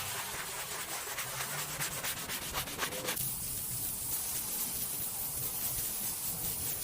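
Scrubbing: quick repeated rubbing strokes for about three seconds, then a steadier, softer rubbing hiss.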